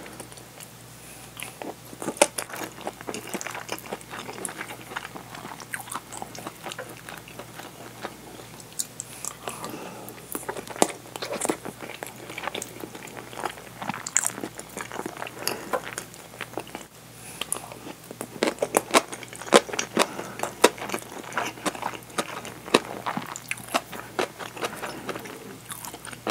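Close-miked chewing of curry rice with a fried egg: wet mouth clicks and some crunching, thickest about two-thirds of the way in.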